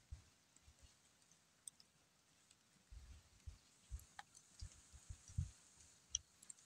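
Near silence, with scattered faint low thumps and a few faint clicks.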